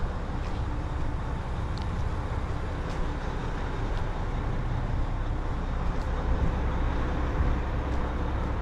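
Steady outdoor urban ambience around a railway station: a continuous low rumble with a few faint ticks over it.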